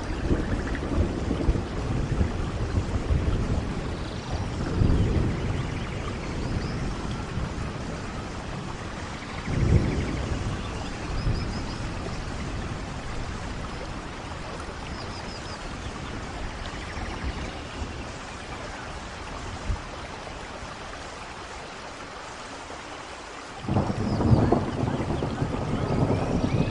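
Steady rain falling with rolling thunder: low rumbles swell about a third of the way in, the rain eases to a quieter patch, then a louder rumble of thunder breaks in suddenly near the end.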